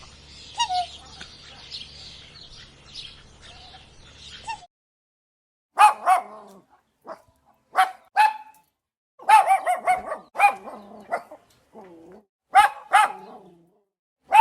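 For the first few seconds, birds chirping over a low steady hum. Then, after a cut, a dog barks in short, sharp, high-pitched yaps that come singly and in quick clusters.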